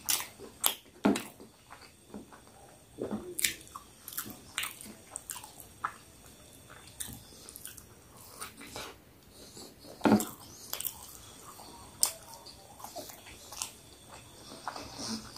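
Close-up eating sounds of a man biting into and chewing a large burger: irregular wet mouth smacks and sharp clicks.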